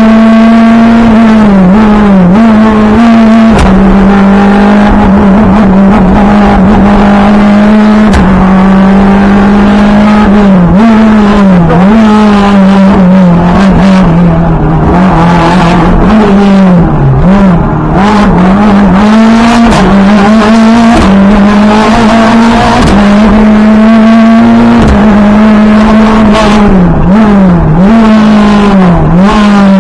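Renault Clio rally car's engine heard from inside the cabin at full stage pace, held at high, near-constant revs. The pitch dips briefly and climbs back again and again, most often in the middle and near the end, as it lifts and shifts through corners.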